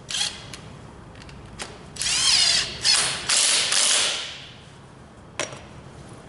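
A handheld power tool run in short bursts, its motor whine rising and falling, with a sharp click near the end.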